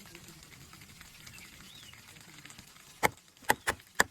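Four sharp snaps or cuts on wood in quick succession, starting about three seconds in, after a faint quiet stretch: woody stems or branches being cut during tree grafting.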